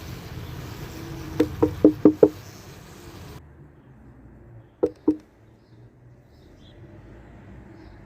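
Knocking on the side of a beehive suspected of being queenless, a quick run of five knocks and then two more a few seconds later, over the colony's steady hum. This is the knock test, used to judge from the bees' reaction whether the hive has a queen.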